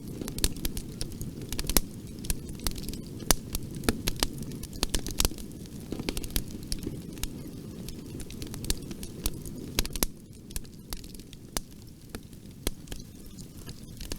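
Bonfire burning: a steady low rush of flames with frequent, irregular sharp crackles and pops from the burning wood. The low rush eases a little about ten seconds in while the crackling goes on.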